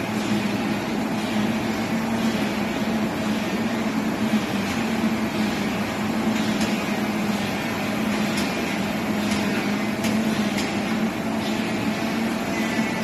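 Heavy machinery running steadily with a constant hum, and a few light clicks over it.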